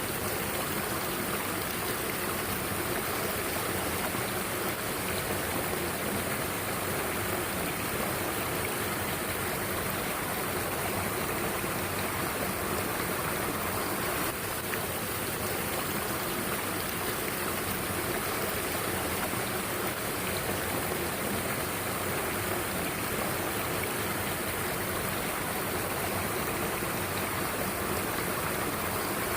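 Mountain stream water rushing steadily, an even, unbroken hiss of flowing water.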